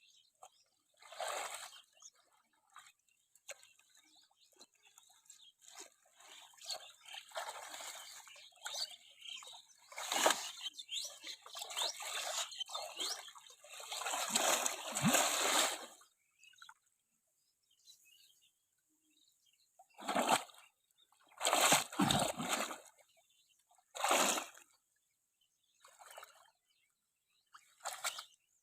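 Water splashing in irregular bursts, with quieter gaps between splashes.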